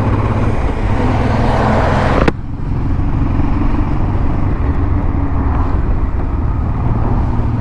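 Motorcycle engine running steadily while riding, under wind and road noise. About two seconds in the sound changes abruptly, and a louder hiss drops away.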